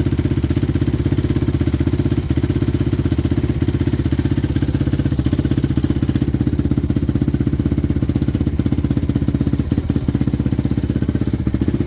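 A 2006 Honda CRF250X's single-cylinder four-stroke engine idling steadily at an even beat on its stock exhaust, warming up after a cold start with the choke now off.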